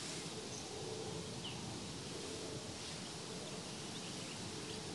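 Steady outdoor background hiss with a couple of faint, short bird chirps.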